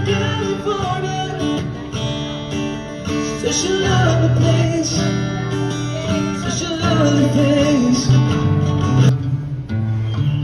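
Guitar music, plucked and strummed, with a melody line over it.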